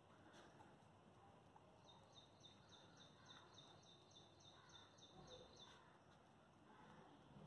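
Near silence, with a bird faintly chirping in the background. It gives a quick, even series of about a dozen high chirps, roughly three a second, for about four seconds in the middle.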